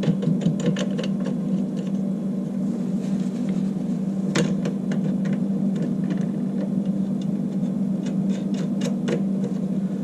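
Small metal clicks and taps of the element's mounting bracket and bolts being handled and fitted on the water heater's flange, over a steady low hum. A run of clicks comes at the start, a single sharp click comes near the middle, and another run comes near the end.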